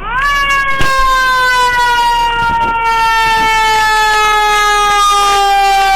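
Fire engine siren sounding one long wail that rises sharply at the start, then slowly falls in pitch.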